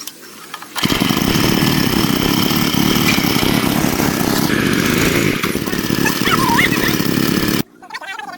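A small engine running steadily at a loud, even level. It cuts in suddenly under a second in and stops just as suddenly near the end.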